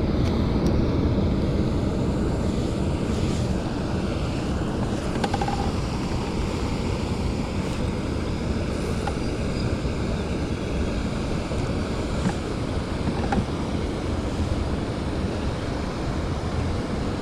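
Steady low rumbling wind buffeting a small action camera's microphone, with water noise around a small fishing boat and a few faint clicks.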